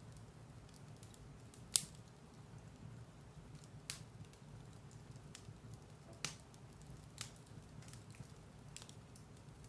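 Firewood burning in a fireplace: a low steady rumble of the fire with sharp crackles and pops every second or two, the loudest just under two seconds in, and fainter ticks between them.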